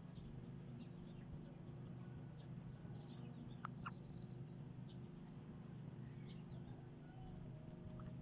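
Faint, short bird chirps scattered over a steady low background hum, with a couple of quick falling notes about halfway through.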